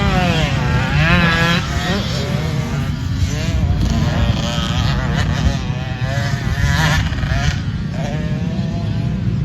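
Dirt bike engine revving up and down again and again, its pitch rising and falling every second or so.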